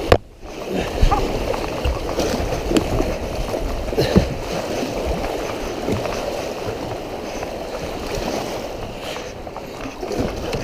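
River rapids rushing around a kayak, with splashing and paddle strokes as it runs a fast, high-water drop. There is a sharp splash or knock right at the start.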